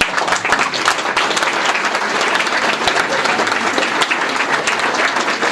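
Audience applauding: many people clapping, starting suddenly and keeping on steadily.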